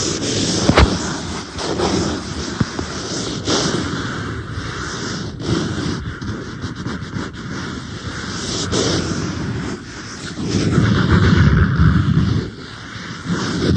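Fingers and nails tapping and scratching on an iPad close to the microphone: a few sharp taps among steady scratching, with heavier rubbing over the last few seconds.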